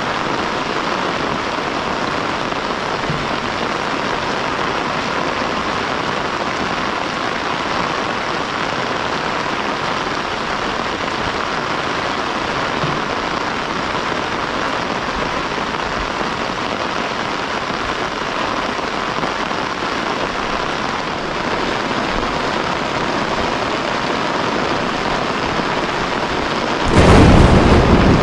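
Heavy rain falling steadily, a dense even hiss. About a second before the end it turns suddenly louder and deeper, with a low rumble.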